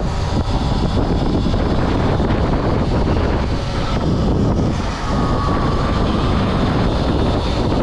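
Wind rushing over the camera microphone of a rider on a moving electric dirt bike, a steady loud rush with a faint thin whine about halfway through.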